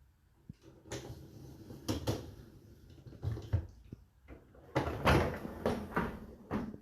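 Dishwasher door and racks being handled: a run of irregular knocks and rattles as the racks slide and the dishes in them knock together.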